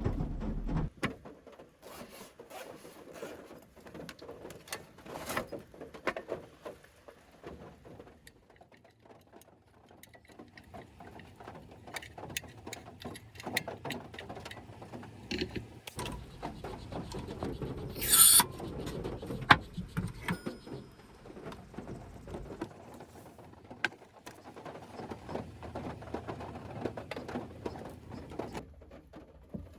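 Irregular small clicks, taps and rustles, as of objects being handled, with one brief loud rush of noise about eighteen seconds in.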